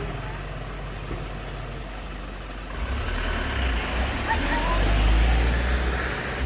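A motor vehicle's engine running with a low rumble that grows much louder about three seconds in.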